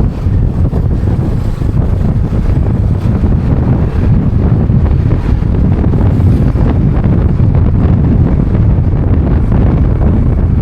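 Wind buffeting the microphone while riding a motorbike on a highway: a loud, steady low rumble.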